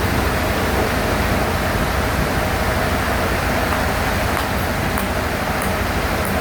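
Sawmill bandsaw running with a steady, loud noise and a low motor hum underneath.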